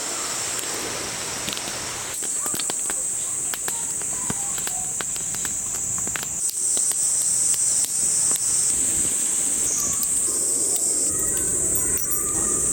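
A steady high-pitched chorus of summer insects, growing louder a couple of times, with scattered small crackles and ticks over a low hiss from the wood fire grilling pork belly.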